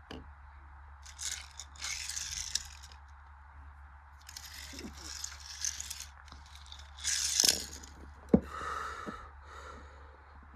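Washing machine near the end of its cycle, running with a steady low hum during its anti-crease tumble. Several bursts of scraping and rustling come over the hum, and there is a sharp click about eight seconds in.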